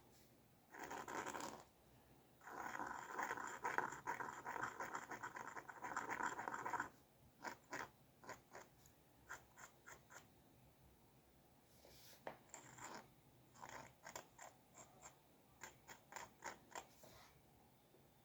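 Drawing strokes scratching on paper: a short stroke about a second in, then a long spell of continuous scratching until about seven seconds, followed by a run of quick short strokes.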